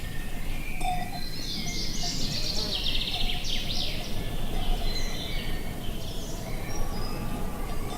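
Outdoor ambience of steady low wind noise with small birds singing over it: scattered high chirps and a fast trill about one and a half to four seconds in.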